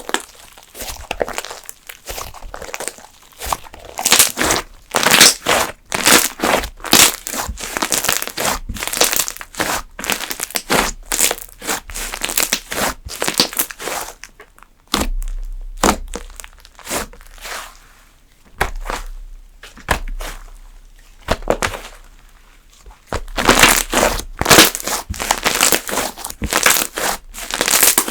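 Fluffy slime being squeezed, pressed and stretched by hand, giving rapid clusters of crackling and crinkling clicks with a couple of brief quieter pauses.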